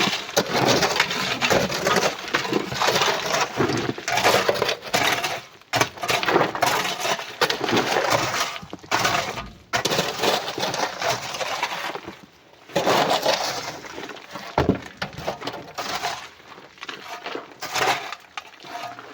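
Loose coral rock and stones clattering and crunching as they pour and tumble, in several surges with short lulls between.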